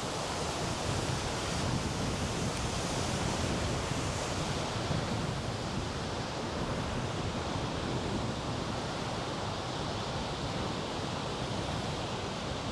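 Nugget Falls, a large waterfall, heard up close: a steady, unbroken rush of heavy falling water.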